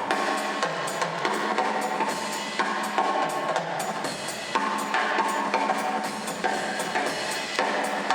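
Brass band playing a lively tune: sustained horn chords over a drum kit beating a steady rhythm with bass drum and snare.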